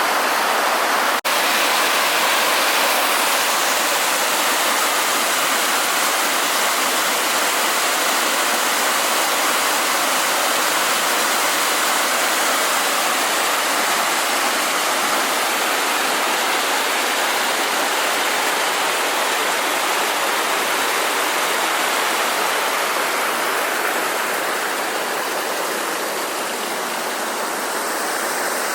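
Waterfall rushing steadily, a dense, even roar of falling water, with one brief break in the sound about a second in.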